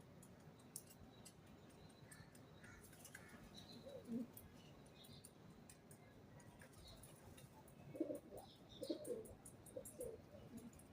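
Faint pigeon cooing: a low coo about four seconds in and a run of coos from about eight seconds, with faint higher chirps from small birds in between.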